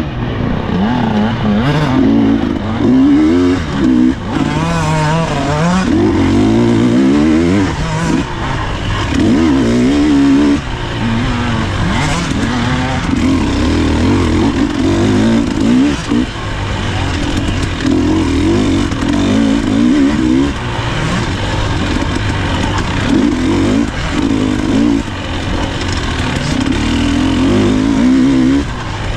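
Husqvarna TE300 two-stroke dirt bike engine being ridden hard off-road, revving up and falling back again and again as the throttle is worked, the pitch rising and dropping every second or two.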